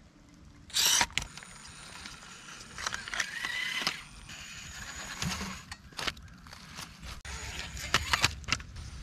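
Axial SCX24 1/24-scale RC crawler's small electric motor and gears whining as it crawls, with a short burst of noise about a second in and scattered sharp clicks and knocks near the end.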